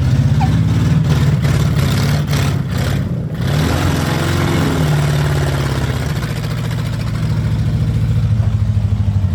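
Demolition derby cars' V8 engines running loudly, with one engine revving up and back down about four seconds in.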